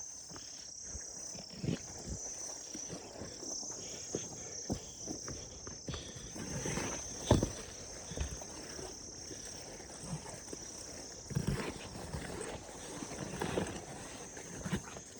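Insects chirring in a steady, unbroken high-pitched drone, with irregular low thumps and rustles over it, the loudest about seven seconds in.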